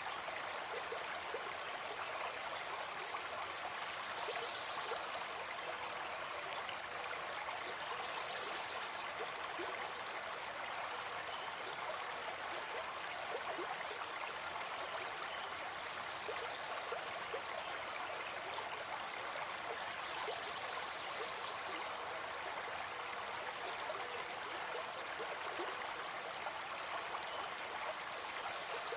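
Gentle forest stream flowing steadily: an even, unbroken rush of running water.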